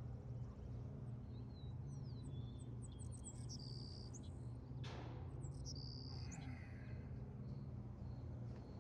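Small birds chirping in short, quick rising and falling calls, in two bouts, over a steady low hum. A single sharp knock comes about five seconds in.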